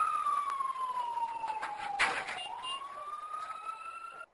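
Emergency vehicle siren wailing: one slow fall in pitch, then a rise again, growing fainter. A sharp knock comes about two seconds in, and the siren cuts off abruptly near the end.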